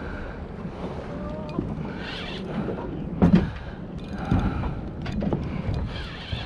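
A boat's engine runs low under wind and water noise, with a sharp knock about three seconds in and another about a second later.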